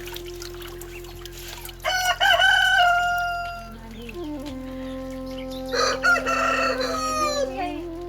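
A rooster crowing twice, first about two seconds in and again about six seconds in, each crow ending in a long held note.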